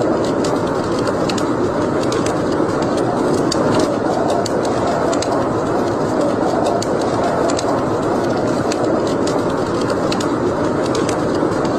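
Wood fire burning in a fireplace: a steady rushing noise with frequent small, sharp crackles and pops scattered irregularly throughout.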